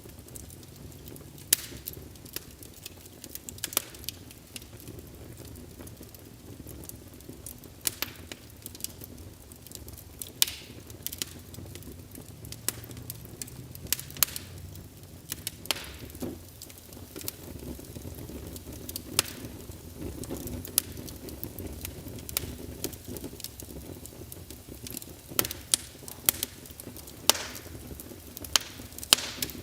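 Wood fire burning in a fireplace: a steady low rush of flames with irregular sharp crackles and pops, a small cluster of them near the end.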